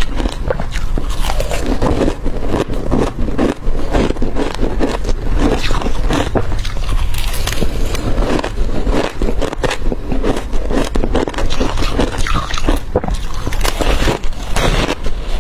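Crushed ice being bitten and chewed close to the microphone: a loud, continuous run of irregular crunches and crackles.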